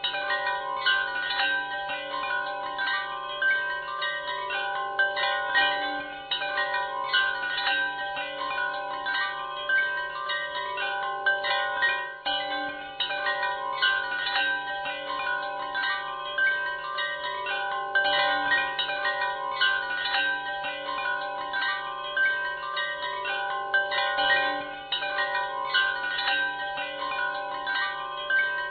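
Wind chimes ringing continuously, many overlapping metallic notes struck in quick irregular succession over a steady low hum.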